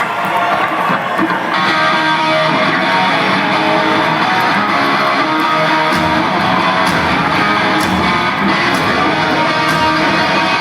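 Live hard-rock band: electric guitars playing the song's opening riff, with bass and drums coming in about six seconds in.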